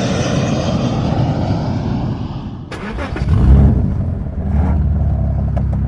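Vehicle engine sound effect opening the track: an engine running, then from about three seconds in a deep low rumble with a few sharp clicks.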